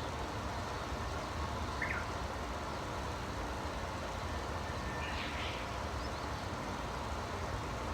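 A few short bird chirps: one about two seconds in and a brief cluster a little after five seconds, over a steady low background rumble.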